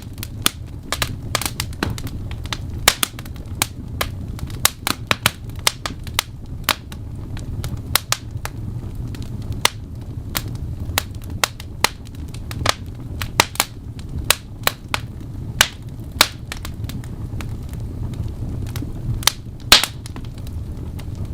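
Wood fire in a fireplace crackling, with irregular sharp pops and snaps several times a second over a low steady rumble of the flames. One pop near the end stands out louder than the rest.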